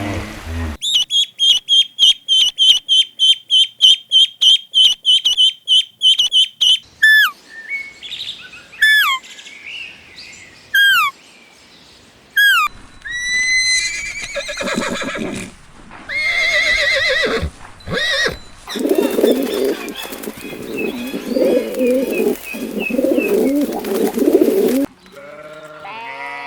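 A string of different animal calls. First a bird chirps rapidly and high for about six seconds. Then come several separate whistles, each falling in pitch, then a mix of other calls, and finally a lower, rougher stretch of animal sound that stops shortly before the end.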